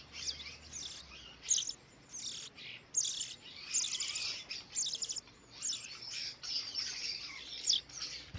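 Small songbirds chirping and twittering: a busy string of short, high notes, some overlapping, coming every half second or so.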